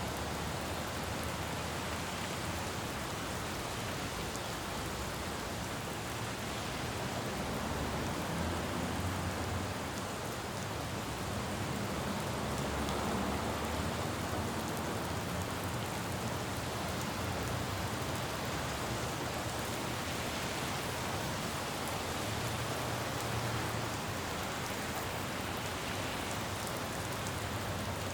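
Steady rain falling on a city road, with the low rumble of passing traffic swelling a few times underneath.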